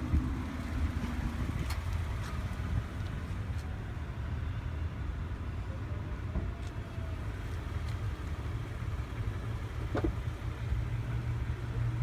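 Steady low rumble, like a car running, with a few faint clicks.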